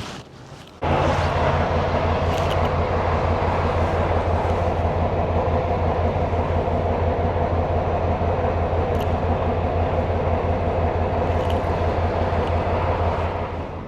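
Semi truck's diesel engine running steadily with a low pulsing drone, starting abruptly about a second in and dropping in level near the end.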